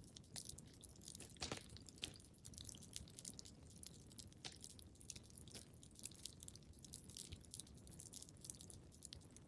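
Wood fire crackling in a fireplace, quiet: irregular small snaps and pops over a low steady rumble, with two louder pops about one and a half and two seconds in.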